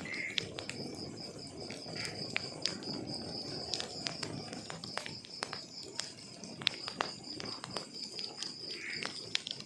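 Wood fire crackling, with irregular sharp pops and snaps over a low rush of flame, and a steady pulsing cricket trill running behind it.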